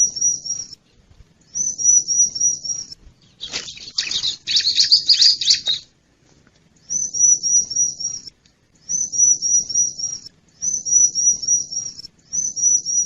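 Bar-winged prinia (ciblek) lure call: short bursts of about five rapid high-pitched notes, repeated every second or two, with a longer, louder harsh chattering burst in the middle.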